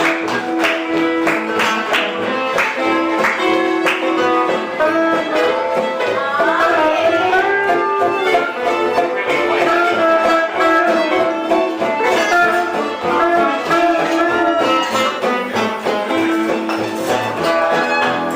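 Live band playing gypsy-style music, with a melody line that slides up and down in pitch about the middle.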